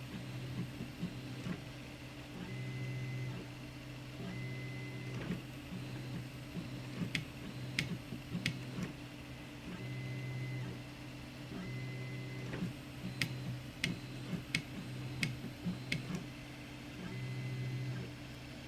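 Zonestar P802M 3D printer printing: its stepper motors hum in steady tones that start, stop and change every second or two as the moves change. A scattering of sharp clicks comes in the middle.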